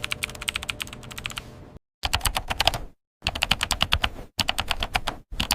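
Rapid keyboard-typing clicks in several quick runs, each cut off abruptly by a moment of dead silence.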